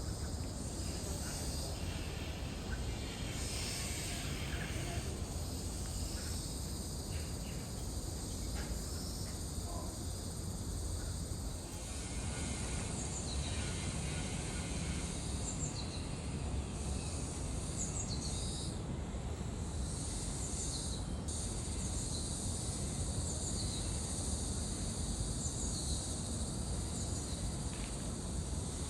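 Outdoor ambience: a steady low rumble under a continuous high insect-like buzz. From about halfway through, faint short high chirps repeat every second or two.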